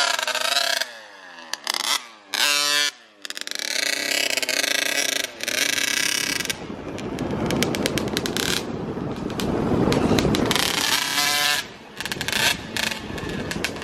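Small dirt bike engine revving up and down in short bursts, its pitch rising and falling, then running harder with a rougher, noisier sound near the middle.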